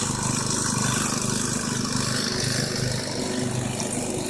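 Garden tiller's small engine running steadily at a constant pitch.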